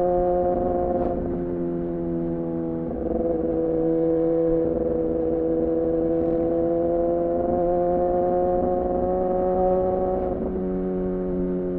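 2014 Yamaha R6's inline-four engine running at a steady cruise through an R9 titanium muffler and Leovince header, its pitch creeping slowly upward. The throttle eases briefly about a second in and again near the end, the note dropping a little before coming back.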